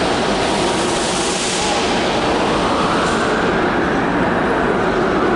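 Loud steady rushing noise of a train moving through the station. The high hiss drops away about three seconds in, leaving a lower rumble.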